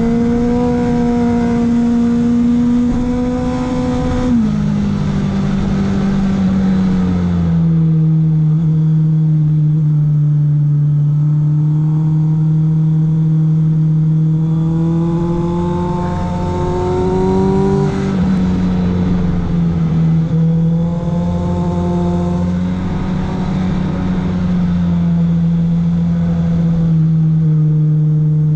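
Honda CBR650F's inline-four engine running under load, heard from the rider's seat as the bike climbs and leans through bends. Its pitch drops sharply a few seconds in, rises again around the middle, then dips and holds steady.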